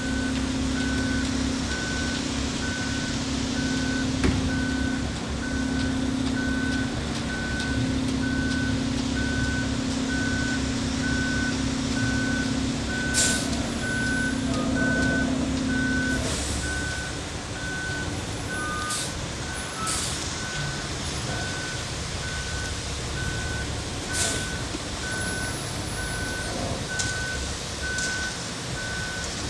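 Concrete mixer truck reversing: its back-up alarm beeps steadily and evenly over the diesel engine running. The engine drone drops off a little after halfway, and a few short sharp hisses or clanks come in the second half.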